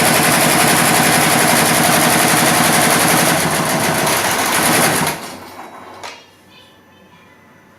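Computerized embroidery machine stitching at speed, a rapid steady clatter of needle strokes, then winding down and stopping about five seconds in, with a single click about a second later.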